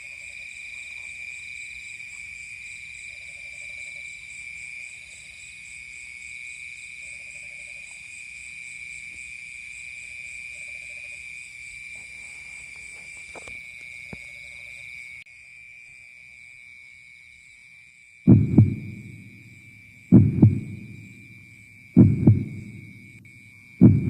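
Night insect chorus of crickets and katydids: steady high trilling with a pulsing top note, faint low croaks now and then, and the chorus drops in level about 15 seconds in. From about 18 seconds in, a loud low double thump repeats roughly every two seconds.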